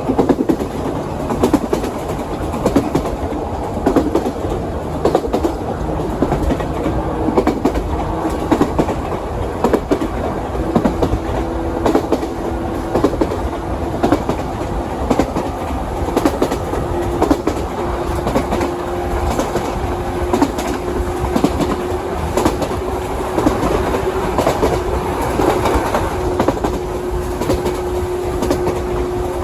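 JR 117 series electric train running along the line, heard from inside the car: steady running noise with the clickety-clack of wheels over rail joints. A steady hum comes in about ten seconds in and holds on.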